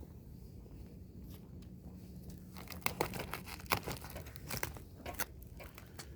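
Packing material being torn and crumpled while a stove is unpacked from its box: quiet handling at first, then from about three seconds in a run of sharp, irregular crackles and rips.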